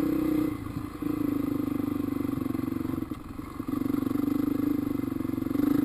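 Dirt bike engine running under way on a trail, a steady drone that drops off briefly twice, about half a second in and around three seconds in, as the throttle is eased and picked up again.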